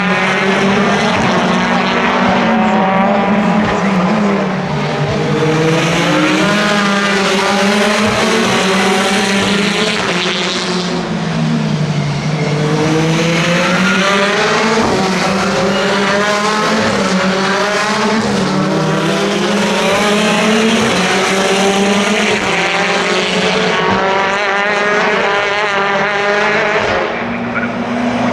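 Several race cars' engines at racing speed, their pitch repeatedly climbing through the gears and falling back on the shifts and braking, with more than one car heard at once.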